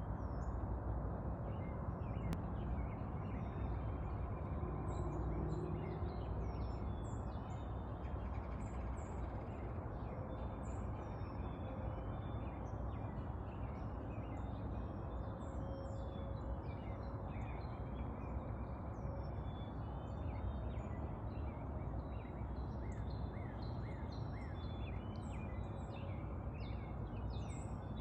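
Many short bird chirps and calls, coming thick and fast, over a steady low background noise.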